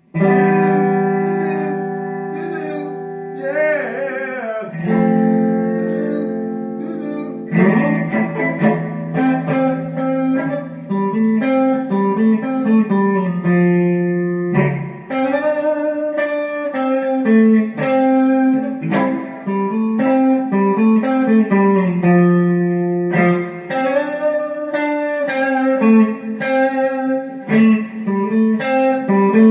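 Instrumental guitar music: a held chord with a few bending notes, then from about seven seconds in a steady run of picked notes.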